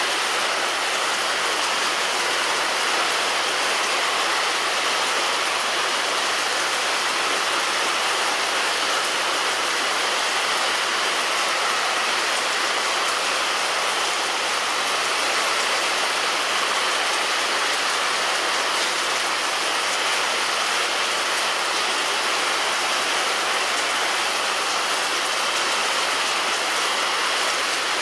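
Heavy rain falling steadily on a roof: an even, unbroken hiss of raindrops with no thunder.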